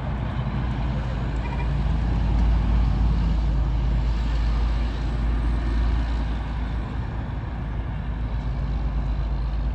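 A heavy truck's engine running with road noise: a low, steady rumble with an engine hum that swells over the first few seconds and then holds.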